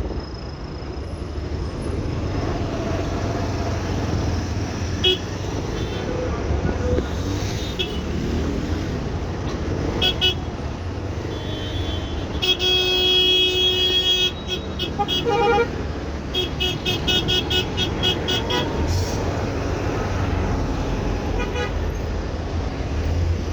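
Busy city road traffic heard from a moving motorbike: a steady low rumble with vehicle horns honking over it, short toots now and then, one long horn blast about halfway through and a quick string of short beeps a few seconds later.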